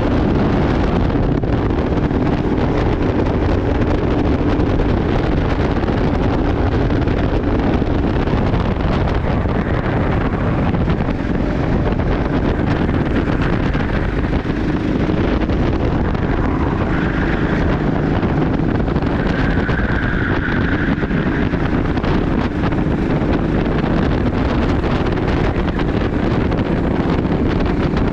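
Racing go-kart engine running continuously at speed, with wind buffeting the microphone.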